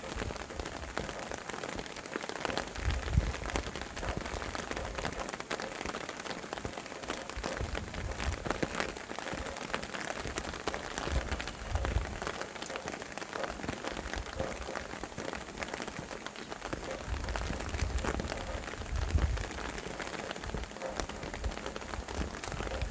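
Steady rain falling, with many separate drops ticking on a surface. Wind gusts rumble low now and then, swelling about three seconds in, again near the middle and toward the end.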